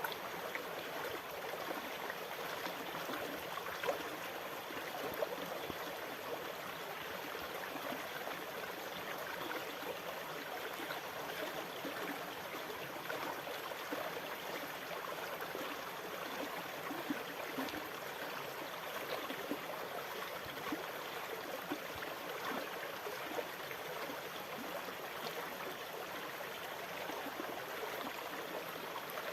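Water running steadily: an even, fine-textured rush at a constant level, without the rise and fall of separate waves.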